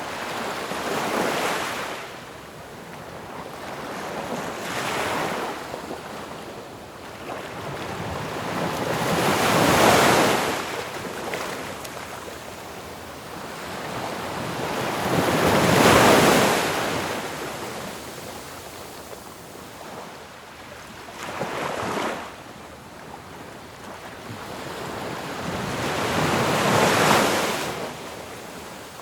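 Ocean waves breaking on a shore, one after another, each surge swelling up and washing back about every five or six seconds.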